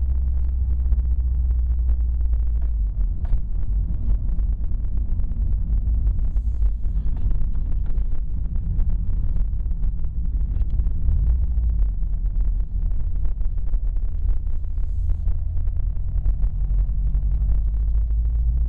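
A 2011 Subaru WRX's turbocharged flat-four engine running with a steady low rumble and a fast, irregular faint ticking on top. This is the weird noise the owner is investigating, and its cause is not identified.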